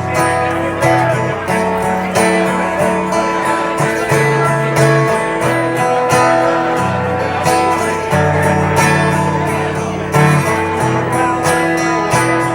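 Live music: an instrumental passage without singing, led by strummed acoustic guitar over a changing low line, with regular strokes.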